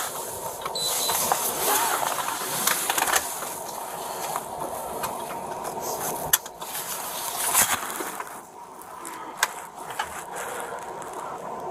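Rustling and scuffing handling noise with a few sharp clicks and knocks, the loudest a click a little past the middle.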